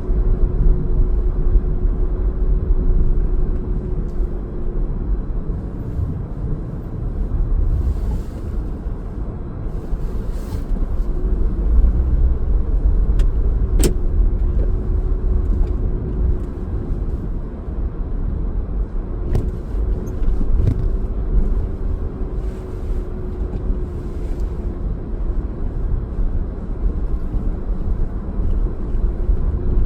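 A car driving on city streets: steady low rumble of engine and tyres with a faint constant hum, a few brief rises of hiss, and one sharp click about a third of the way in.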